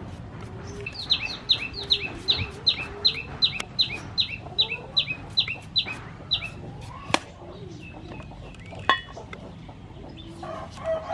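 A bird calling in a fast run of about sixteen short, high, falling notes, some three a second, over faint scraping from peeling a potato. Near the end a rooster begins to crow.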